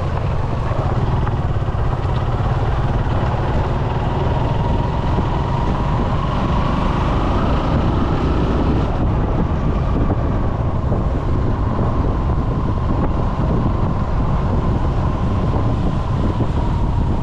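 Motorcycle running steadily under way, engine pitch rising slightly about halfway through and then holding, with a heavy low rumble of wind buffeting the camera microphone.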